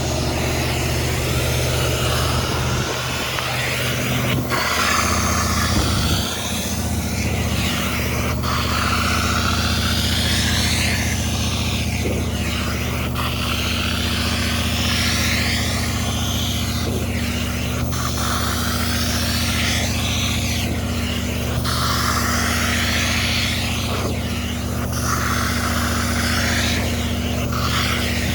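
Carpet spray-extraction machine running with a steady motor hum, while the extraction wand is drawn over a car's carpet in repeated strokes, each pass a rushing, hissing suction of water and cleaning solution every two to three seconds.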